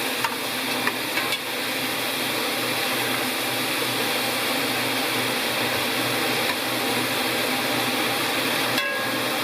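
Food frying in a pan: a steady sizzling hiss with a low hum underneath and a few light clicks near the start and near the end.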